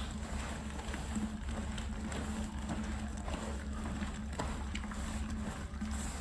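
Motorised rug-cleaning machine running steadily, a constant hum under a noisy wash of water, with a few faint clicks.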